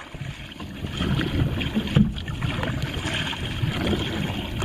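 Water sloshing and lapping around a kayak, with wind buffeting the microphone and a few light knocks.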